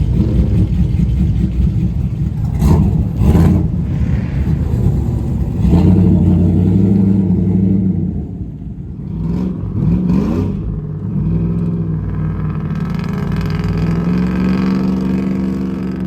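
Loud engines of cars or trucks running and revving hard, with the pitch sweeping up sharply about nine to ten seconds in.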